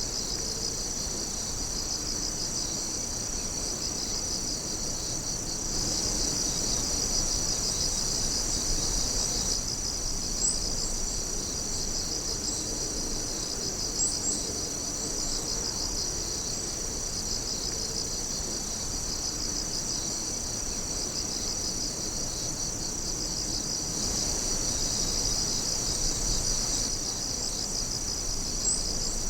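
A chorus of night insects singing steadily: a continuous high ringing with a fast pulsing trill beneath it. Three brief sharp ticks stand out.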